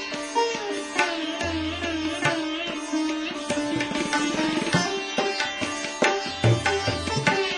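Indian classical music: a sitar playing plucked notes with pitch bends, with low tabla strokes underneath.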